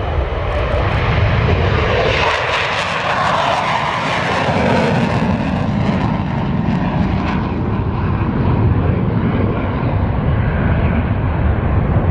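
Fixed-wing aircraft engines running loud and steady with a low rumble, swelling in a rushing roar a couple of seconds in, then easing.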